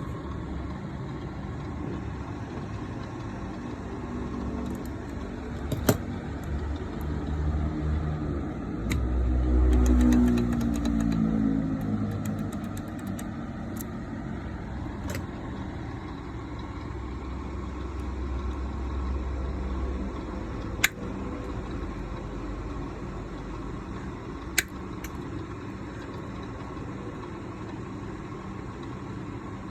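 Motor vehicle engine noise: a steady low rumble, with one vehicle passing close about ten seconds in, its engine note falling away. A few sharp clicks stand out.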